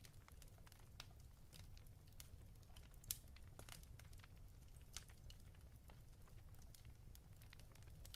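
Faint fireplace crackling: scattered soft pops and snaps at irregular intervals, a sharper pop about three seconds in, over a low steady rumble.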